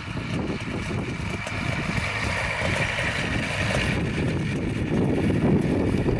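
Engine of a homemade light aircraft running steadily, with a constant whine and wind buffeting the microphone.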